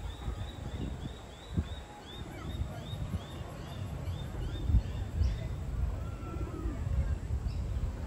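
A bird repeating a short, high chirp about two or three times a second, stopping about five seconds in, over a steady low rumble.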